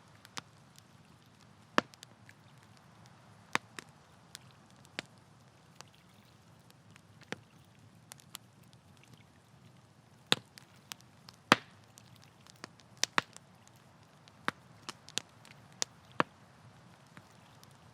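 Campfire crackling: sharp, irregular pops and snaps of burning wood, a few each second, over a faint low hiss of the flames.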